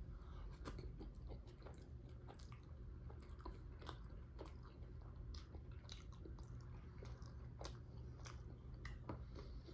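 Faint chewing at close range, with soft wet mouth clicks and squelches scattered through, as a mouthful of saag chicken curry and naan is eaten.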